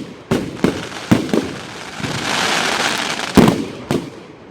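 Fireworks going off: a quick series of sharp bangs from bursting shells. About halfway through comes a sustained hiss, followed by a loud bang and then another.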